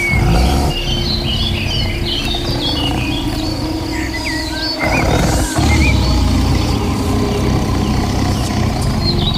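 Many short, quick chirps of forest birds over a loud, steady low rumble, which drops out briefly about five seconds in.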